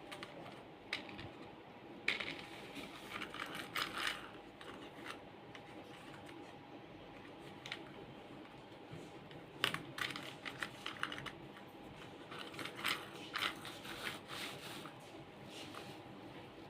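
Toys being handled: irregular small clicks and clattering runs, the sharpest about ten seconds in, over a faint steady hum.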